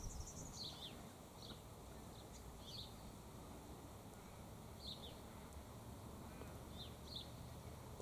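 Faint, short, high chirps from a small bird, each dropping quickly in pitch, single or in quick pairs every second or two, over a steady low outdoor background hiss.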